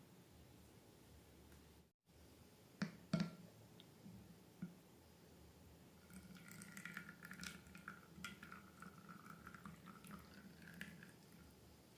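Faint wet squishing of slime being handled: two sharp clicks about 3 s in, then a stretch of sticky crackling from about halfway to near the end.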